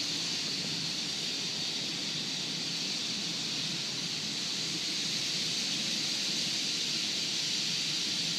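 Steady chatter of a huge flock of birds, many calls blending into one even, hiss-like din.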